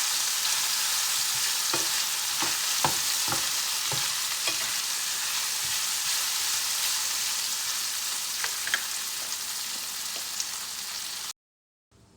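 Sliced onions and bell peppers sizzling steadily in a hot frying pan, with a few light clicks of a utensil stirring them in the first half. The sizzle cuts off abruptly near the end.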